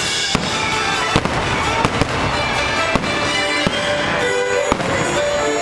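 Fireworks bursting overhead in repeated sharp bangs, unevenly spaced about every half second, over the fireworks show's music playing with held notes.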